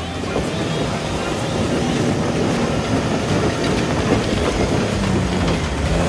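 Four-wheel-drive vehicle engine running while driving a dirt track, with rough road and tyre noise; the engine hum grows louder toward the end.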